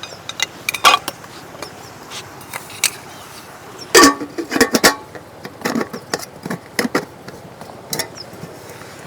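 Irregular clicks, clatters and knocks of hard objects being handled, busiest about four to five seconds in, over a steady rush of flowing river water.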